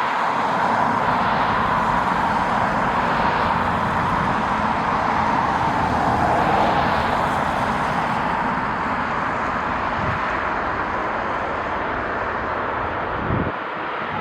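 Jet airliner engines running: a steady rumble with a whine near the middle of the range that drifts slightly in pitch.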